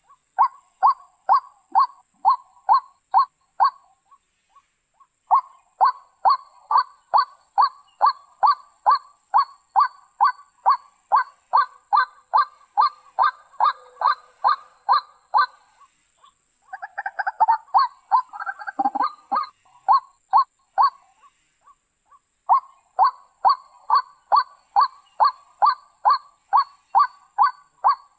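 White-breasted waterhen (ruak-ruak) calling: long runs of repeated harsh 'kruak' notes, a little over two a second, broken by short pauses, with a rougher, jumbled stretch about two-thirds of the way through.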